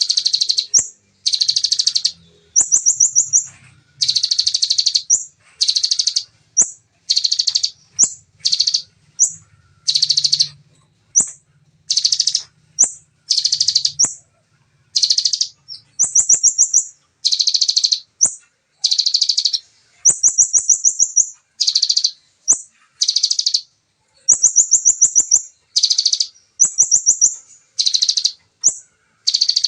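Bar-winged prinia (ciblek) singing its rapid burst song: short, dense trills under a second each, repeated about once a second with brief gaps, some bursts pitched higher and clipped short.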